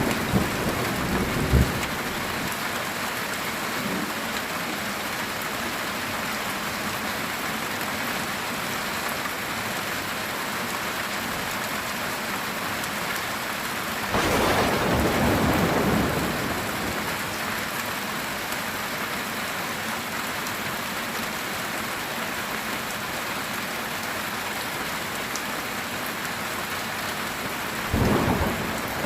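Heavy rain falling steadily on a metal tin roof, with thunder: a few sharp cracks at the start, a rolling rumble about halfway through, and another beginning near the end.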